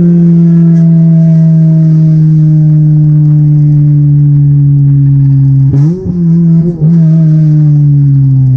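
Toyota Corolla's swapped 2ZZ-GE 1.8-litre four-cylinder engine heard while driving, a loud steady note whose pitch sinks slowly as the revs ease off. About two-thirds of the way in, the note briefly breaks and dips twice before it picks up again.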